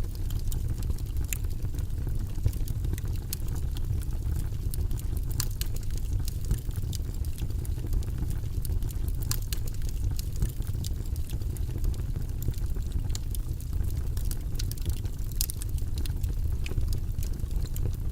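Steady, deep white-noise background, its energy heavy in the low rumble, with faint irregular clicks scattered through it.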